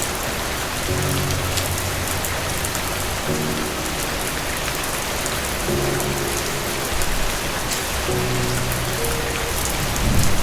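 Steady rain with scattered close drop ticks, under soft background music of low held chords that change every two to three seconds. A low rumble of thunder swells near the end.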